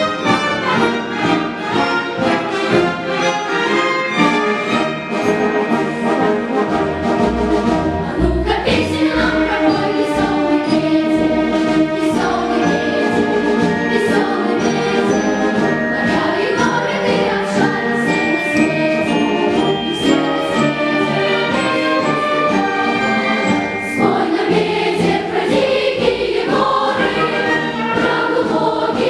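Children's choir singing a lively song with instrumental accompaniment.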